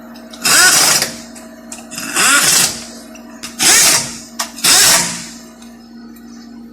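Impact drill set to low power, driving the transmission oil pan bolts in four short bursts about one to one and a half seconds apart, each spinning up and winding down.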